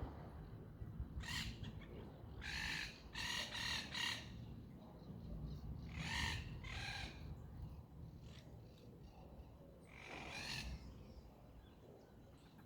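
A bird giving harsh, caw-like calls in several bouts: one call about a second in, a quick run of three or four a little later, two more around the middle and one near the end, over a low steady rumble.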